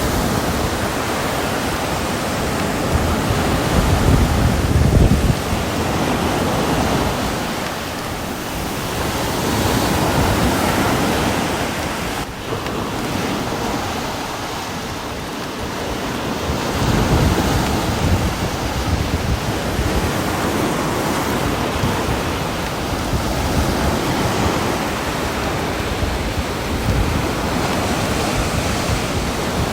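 Steady rain hiss that swells and eases every several seconds.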